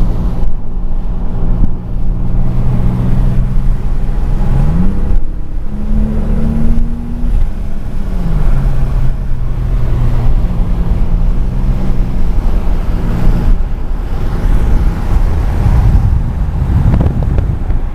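Car engine running under way with a steady low drone; its pitch climbs about five seconds in, drops again near eight seconds, and shifts a few more times, as with changes in revs and gears.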